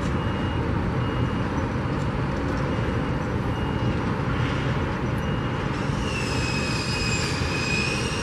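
Construction-site noise: a steady rumble of heavy machinery and vehicles. A backup alarm beeps about once a second in the first few seconds, and a high, slightly wavering whine comes in about six seconds in.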